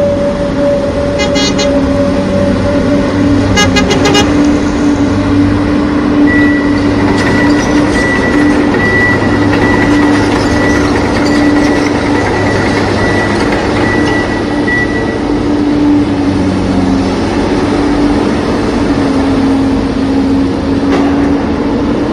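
Truck engine running steadily under a long, held horn-like tone, with a higher tone joining for several seconds in the middle. A few quick clicks sound in the first four seconds.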